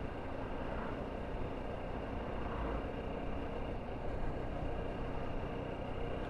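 Motorcycle running steadily while being ridden, a constant, even sound with no sudden events.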